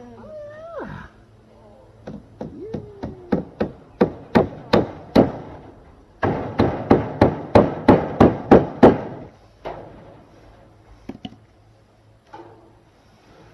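Hammer driving tacks into a wooden frame. The blows come faster from about two seconds in, then a quick run of about eight strikes, then a few light scattered taps near the end.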